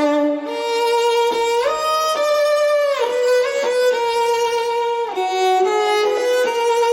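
A cello stem from a drill sample pack playing a slow melody of held, bowed notes that slide from one note to the next.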